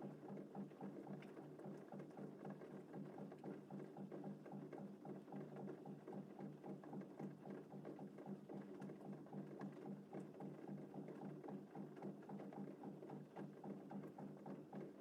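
Faint, gentle rain pattering steadily, a dense even crackle of small drops with no thunder.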